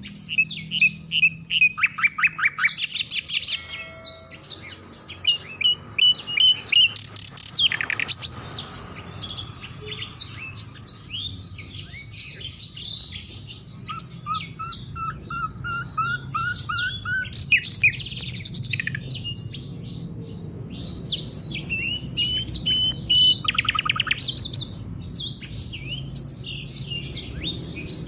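A chorus of African songbirds singing together: dense, overlapping sharp chirps and fast trills, with a run of notes climbing in pitch about halfway through.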